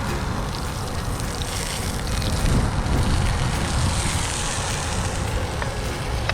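Wood fire burning in a small camp stove: a steady rushing rumble with a few sharp crackles.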